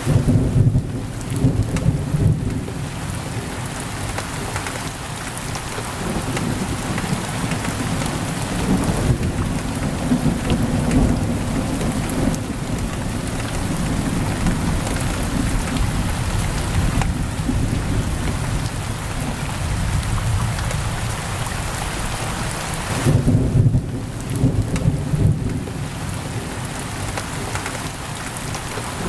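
Heavy rain pouring steadily on a window, with low thunder rumbling twice: once right at the start for a few seconds and again about 23 seconds in.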